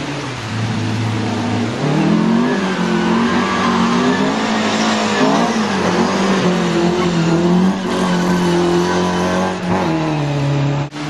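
Rally car engine under hard acceleration. Its low note rises sharply about two seconds in, holds high and wavers up and down, then drops back near the end.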